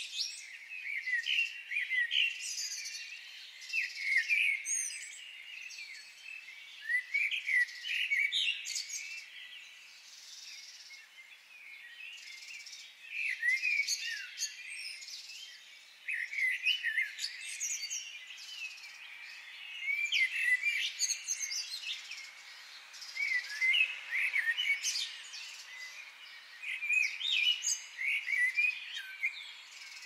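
Several songbirds chirping and singing, with many short, high, overlapping calls coming in bursts and a few quieter lulls between them.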